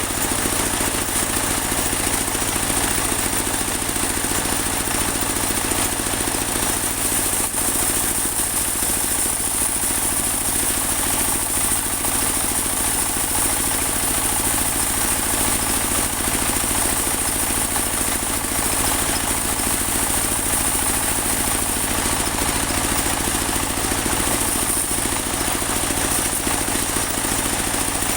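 Engine-driven portable band sawmill running steadily while it saws a large teak log: an even engine drone with a constant high whine above it.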